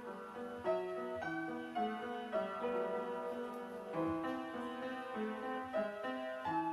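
A 1950s Everett piano being played, a sonata passage of melody and accompaniment notes struck in steady succession. The piano is out of tune and needs tuning.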